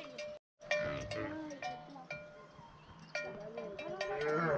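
Bells on cattle clanking irregularly, each strike ringing on. There is a very short dropout in the sound under a second in.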